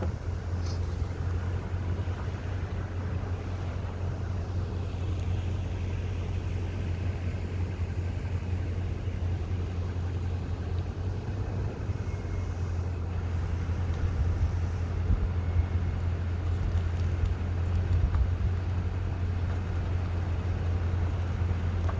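Car cabin noise: a steady low engine and road rumble from inside a car driving through a drive-through light display.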